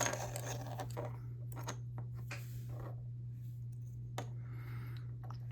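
Plastic Lego minifigure and small pieces being handled: scattered light clicks and rustles, over a steady low hum.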